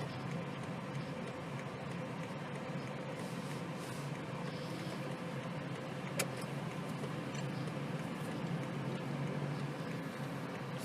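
Steady running noise of a BMW 218i Gran Coupe heard from inside the cabin: a low hum with a faint steady tone over it, and one sharp click about six seconds in.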